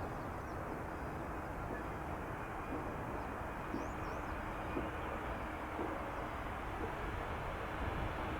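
Distant jet airliner engines running as a steady rumble, a Boeing 787-10 on approach to land, growing slightly louder near the end. A few faint bird chirps partway through.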